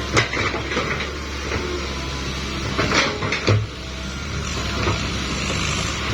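A steady low engine hum with a few scattered knocks and clatters, the loudest cluster about three seconds in.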